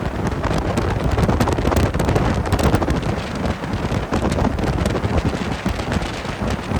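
Wind buffeting the microphone: a steady rumbling rush with faint crackles throughout.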